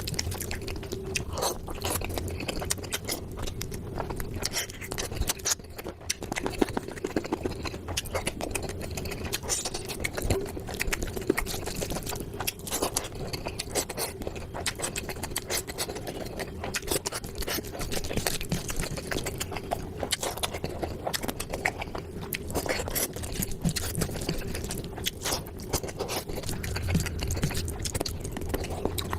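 Close-miked mukbang eating: continuous chewing and wet smacking of curry with rice and puri, with many small irregular clicks and scrapes, over a steady faint hum.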